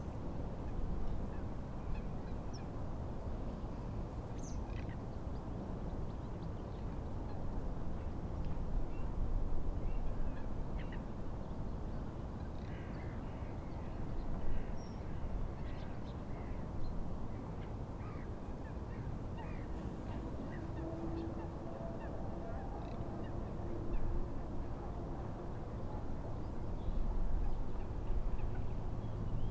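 Wind and lake waves making a steady low rumble, with birds giving many short, scattered calls over it.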